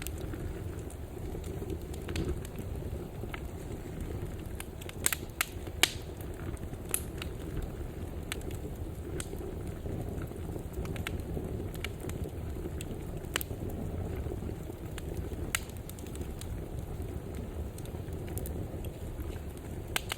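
Wood fire burning: a steady low rumble of flames with scattered sharp crackles and pops, a few louder snaps about five and six seconds in.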